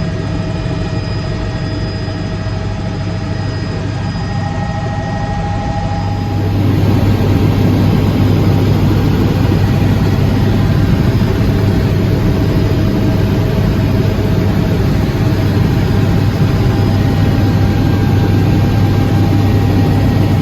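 Aircraft engine drone in flight, steady and loud with a deep hum, growing louder about six seconds in.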